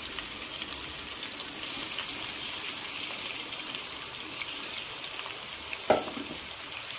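Hot oil sizzling steadily in a metal kadai as boiled potatoes are mashed and stirred into it with a slotted steel ladle. The ladle knocks once against the pan near the end.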